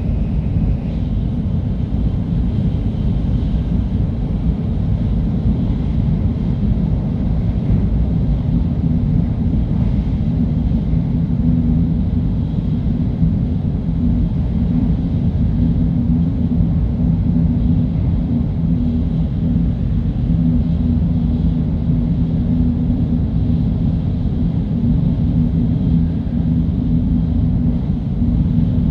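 Shinkansen bullet train running at high speed: a steady low rumble with a faint hum over it.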